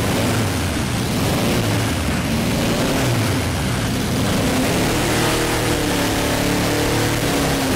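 Lada four-cylinder engine, rebuilt with no crankshaft bearings, running loud and steady at raised revs under throttle: a bearingless engine being run to destruction, about to seize.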